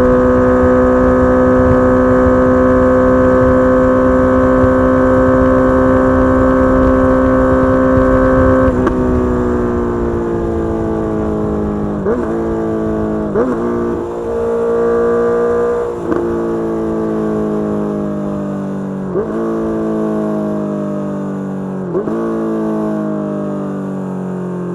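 2022 Honda CBR650R inline-four running through a Mivv GP Pro full-system exhaust, held at a steady high-revving cruise with wind rush for about nine seconds. It then rolls off and slows on engine braking, the note falling, with five downshifts each marked by a short sharp rev blip.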